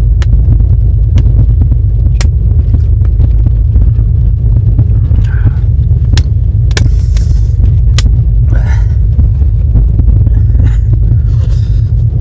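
Passenger train running: a loud, steady low rumble with scattered sharp clicks and knocks, and faint voices now and then.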